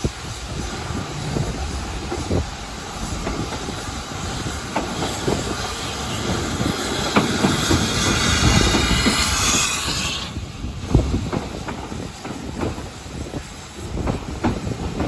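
Steam train moving through the station, its wheels clattering over the rail joints. A loud steam hiss builds up and cuts off sharply about ten seconds in.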